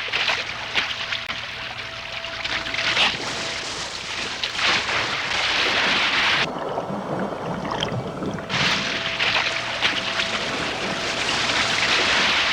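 Water splashing and churning in surges at the surface as blue sharks thrash at bait, over a faint steady hum.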